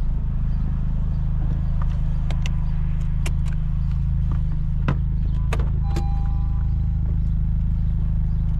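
Honda Civic Type R's K20 four-cylinder engine running steadily through a new Injen stainless exhaust, a constant low drone. A few light clicks are heard through the middle, and a short tone sounds about six seconds in.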